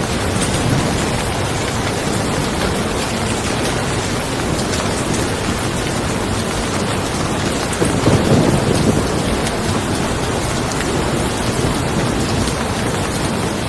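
Steady rain falling, with a low rumble of thunder that swells about eight seconds in.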